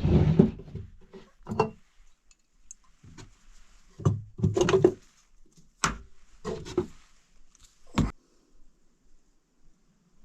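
Irregular knocks and clunks of cooking gear and containers being handled and set down while a quick meal is got ready, about eight over eight seconds, the loudest at the start, then near quiet.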